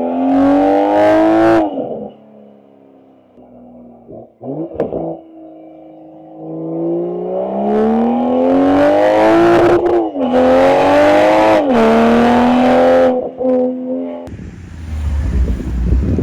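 BMW M340i's turbocharged 3.0-litre inline-six accelerating hard. The exhaust note rises and cuts off, gives a quick rev blip, then climbs through a long pull with two upshifts where the pitch drops back. Near the end it gives way to a low rumble with wind-like noise.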